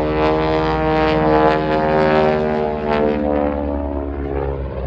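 Propeller-driven biplane's piston engine running during an aerobatic display, a steady many-toned drone that drops slightly in pitch and fades over the last second or two.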